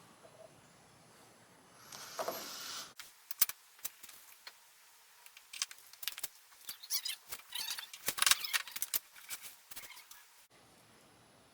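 A brief hiss about two seconds in, then a long irregular run of light clicks and rattles, like small hard objects being handled and set down.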